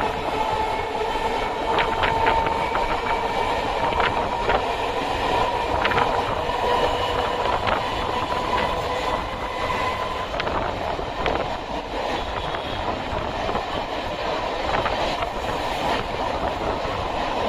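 Chennai MRTS electric suburban train running along the line, with wheels clattering over rail joints and a steady whine running through the rumble.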